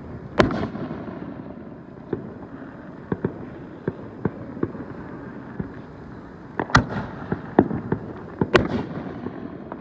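Fireworks going off. A loud bang comes about half a second in, scattered smaller pops follow through the middle, and a cluster of three or four loud bangs comes near the end, the loudest ones trailing off with an echo.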